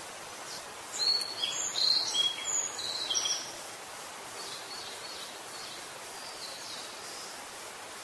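A bird calls in quick short high chirps over a steady outdoor hiss, loudest from about a second in for two seconds or so, then fainter chirps later on.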